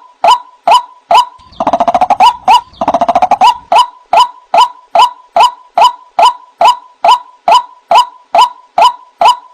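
White-breasted waterhen calling: a loud, steady run of sharp 'kru-ak' notes, a little over two a second, with two short, fast croaking rattles about two and three seconds in.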